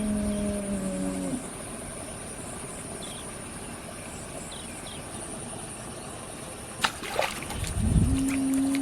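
A cow mooing: one long low moo ends about a second in, and a second begins near the end, rising and then holding its pitch. A few sharp clicks come shortly before the second moo, over a steady high whine.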